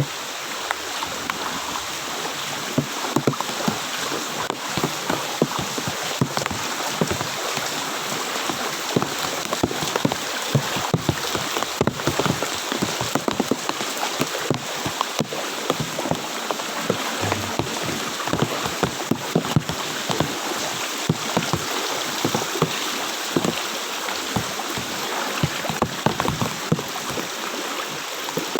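Floodwater about 30–40 cm deep sloshing and splashing continuously, with frequent irregular splashes, as someone wades through it.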